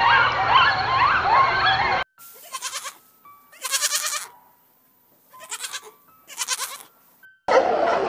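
Meerkats chattering in many short chirps that rise and fall, cut off after about two seconds. Then a young goat bleats four times, each bleat quavering, with near-silent gaps between. Near the end a dense chatter of sea lions cuts in.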